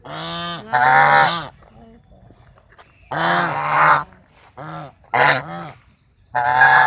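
Geese honking: a run of about six loud, nasal honks, some short and some drawn out, with short pauses between them.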